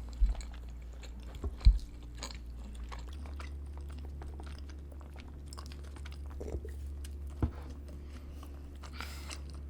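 Close-miked chewing and biting of food, with many small wet mouth clicks. Two dull thumps come within the first two seconds, and lighter knocks later on.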